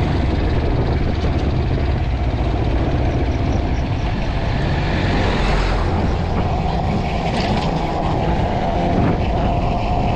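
Dirt bike engine running steadily under way, mixed with wind noise on the microphone.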